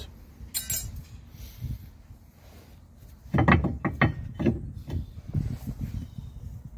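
Metal brake hardware being worked by hand: a click, then a quick cluster of sharp metallic clinks and scrapes about three seconds in, followed by several softer knocks, as the old bent slider clips and parts come off the caliper bracket.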